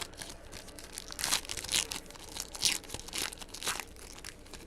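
Trading card pack wrappers being torn open and crinkled by hand, a handful of short rips.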